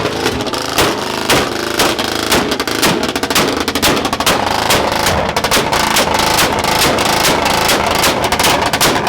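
Car engine held on a two-step launch limiter in a rev battle, giving a rapid, continuous crackle of loud exhaust pops and bangs, like machine-gun fire.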